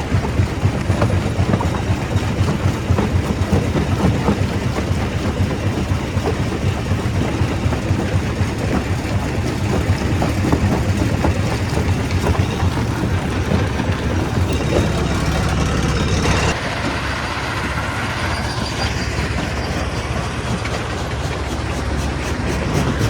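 Stone crusher running under load: a steady heavy machine noise thick with the knocks and cracks of rock being broken. About two-thirds of the way through it changes abruptly to a slightly quieter, hissier sound.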